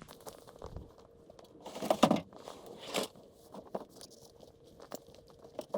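Loaded ice-fishing sled being pulled out and handled: scraping, crunching and knocking, loudest about two seconds in, with another sharp knock about a second later.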